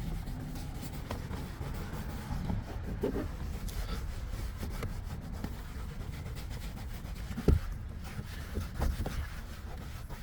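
A cloth rubbing and wiping over a car's plastic interior door panel, buffing off dried interior cleaner, with one short knock about seven and a half seconds in.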